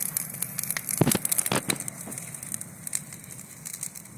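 Bonfire of garden branch prunings burning strongly, crackling with many quick sharp pops. Two duller thumps stand out about a second in.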